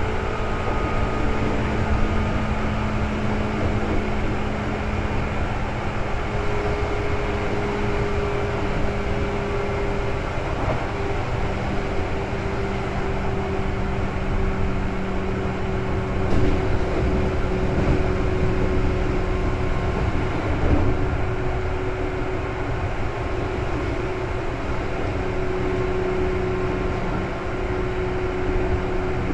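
Seibu 2000 series electric train running along the line, heard from inside the car: a steady rumble of wheels on rail with a low steady hum. Two brief knocks come about halfway through.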